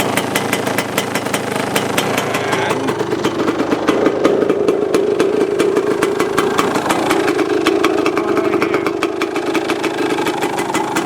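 1990 KTM 300 EXC single-cylinder two-stroke engine idling steadily, its pitch rising a little twice. It is running with a few exhaust leaks, by the owner's account.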